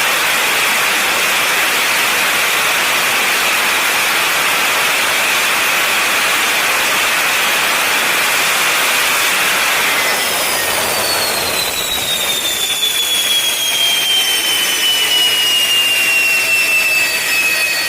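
Jet engine under test running at high power, a loud steady roar with a strong hiss. About ten seconds in the roar eases and a high whine slides slowly down in pitch as the engine spools down.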